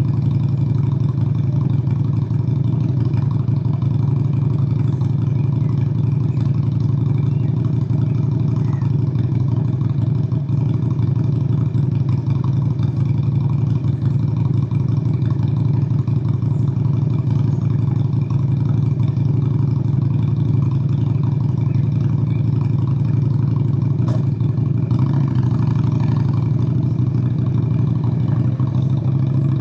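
Honda Shadow VLX 600's V-twin engine running steadily under a rider, its deep, even drone holding nearly constant, with a slight change in tone near the end.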